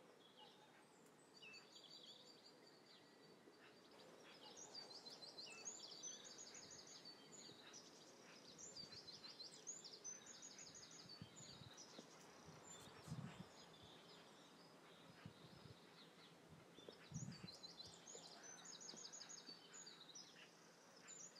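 Faint outdoor ambience with small birds singing: quick runs of high notes come several times, over a soft background hush. Two soft low thumps come in the second half.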